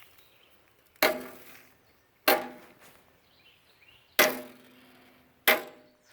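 A container of barbecue ash knocked four times, a second or two apart, to shake the ash out. Each knock rings out briefly with a pitched, metallic tone.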